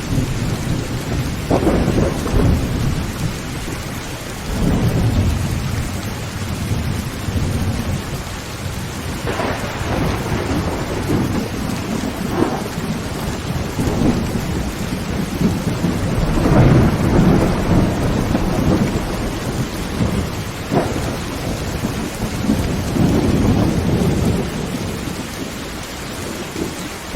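Heavy rain drumming on a tin roof, with thunder rumbling almost without a break and several louder peals swelling up along the way.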